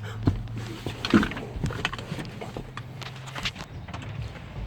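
Kubota pony motor running with a steady low hum that stops about three and a half seconds in as it is shut off, with scattered knocks and footsteps around the truck.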